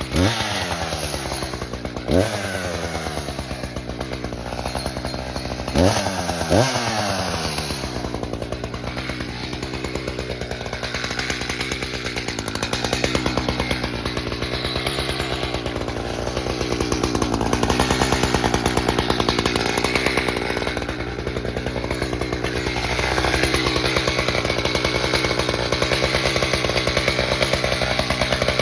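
Chainsaw blipped up four times in the first seven seconds, its pitch dropping back after each, then running on continuously with its pitch rising and falling.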